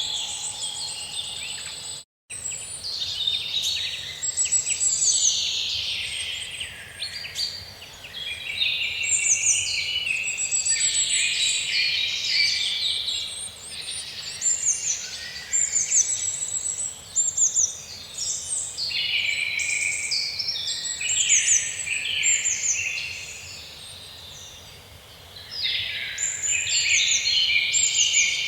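Many small birds chirping and trilling together in a dense, busy chorus, with a short gap of silence about two seconds in and a quieter stretch shortly before the end.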